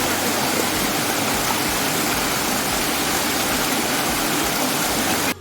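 Steady rushing of water falling over rock cascades. It cuts off abruptly just before the end.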